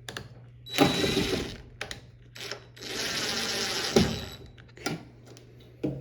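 Cordless electric screwdriver running in two short bursts, driving the screws that hold the washing machine's panels, with a few sharp clicks and knocks between.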